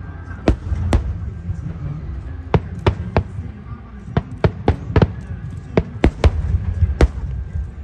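Fireworks display: about fifteen sharp bangs of shells bursting in a quick, irregular string, several coming close together in the middle, over a steady low rumble.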